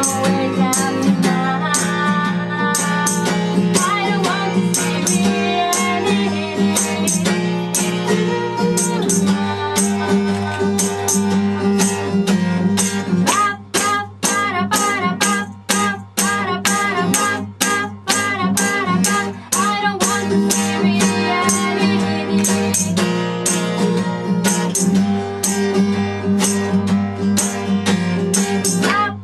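Live band music: guitar and a sung melody over a steady, regular percussion beat.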